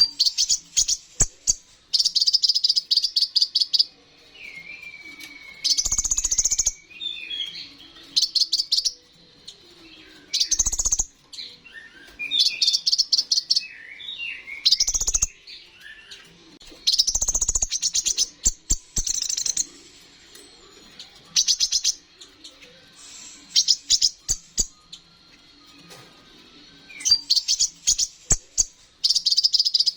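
Kolibri ninja (konin) sunbird singing: bursts of rapid, high chattering trills, each a second or two long, alternating with softer warbled whistling phrases, the imitated 'isian' phrases of a bird in full song. A few short low thumps come between the phrases.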